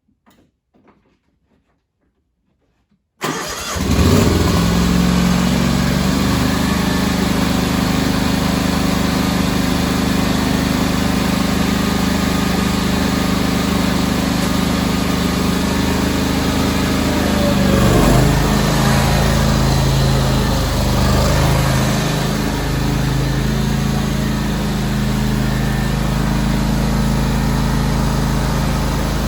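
John Deere X500 garden tractor's Kawasaki FH721V V-twin engine, quiet for about three seconds, then coming in suddenly and running steadily. About 18 s in its pitch sweeps and the running note changes.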